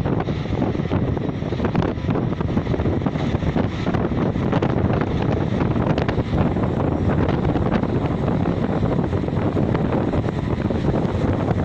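Strong wind buffeting the microphone high up: a loud, steady rushing noise, heaviest in the low range, with small gusty swells.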